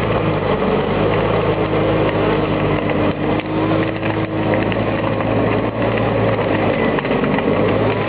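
Valtra T131h tractor's diesel engine running steadily, with a higher steady whine over it for the first half that then stops.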